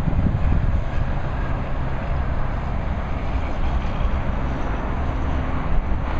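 Steady road traffic: trucks and cars passing, a continuous rumble of engines and tyre noise.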